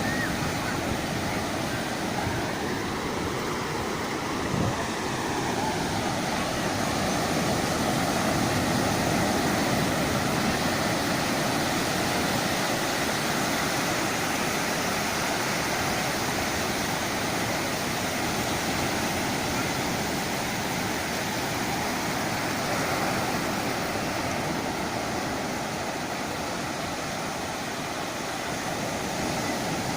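Heavy sea surf after a thunderstorm: a steady wash of breaking waves. A faint tone rises and falls a few seconds in.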